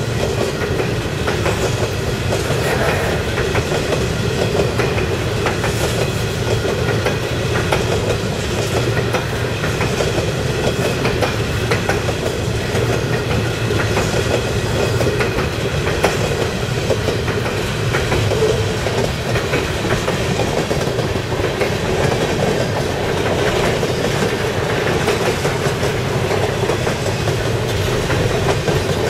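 Open-top hopper cars of a CSX freight train rolling past at steady speed: the continuous rumble and rattle of steel wheels on the rails, with frequent short clicks as the wheels cross rail joints.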